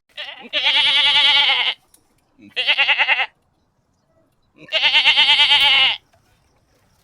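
Goat bleating three times, each call with a wavering, quavering pitch: a long bleat, a shorter one, then another long one.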